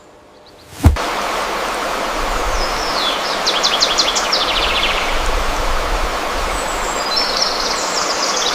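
Steady rushing water that starts abruptly after a sharp click about a second in, with a small bird singing a fast, descending trill over it in the middle and again near the end.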